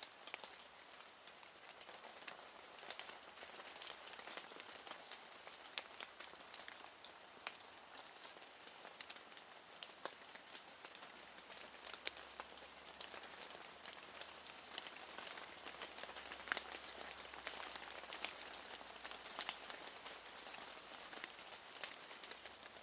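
Steady rain hissing, with many individual raindrops ticking sharply at irregular moments. A faint low hum joins it about halfway through.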